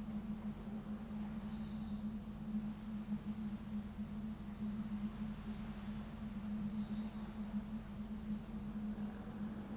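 Outdoor coastal ambience: a steady low hum runs throughout, with a few short, faint, high chirps now and then.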